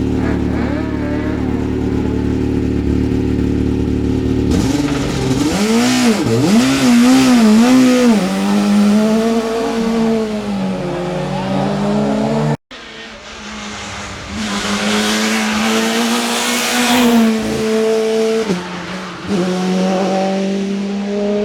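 Hill-climb race car engines at full throttle, the pitch swooping up and down and stepping through gear changes as a car climbs past. The sound breaks off abruptly about twelve seconds in, and a second car follows, revving up through its gears.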